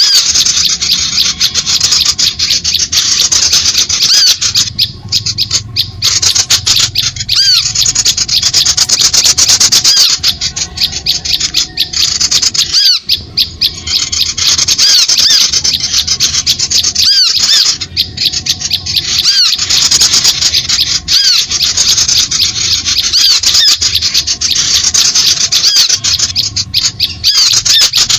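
Bird-lure call (suara pikat) for small birds: a loud, unbroken stream of many overlapping short, high chirping calls. It is the kind of recording played to draw small birds onto birdlime.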